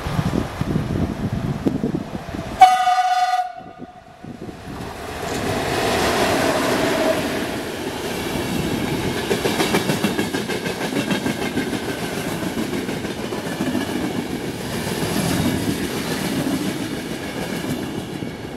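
A train sounds its horn in one short, loud blast about three seconds in. The train then passes, its wheels clattering steadily over the rail joints for the rest of the time.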